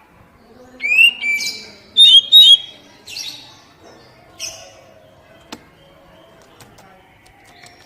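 Oriental magpie-robin (kacer) calling: a rising whistled slur into a held note, two quick hooked whistles, then two harsher, scratchy notes. A single sharp click follows a little later.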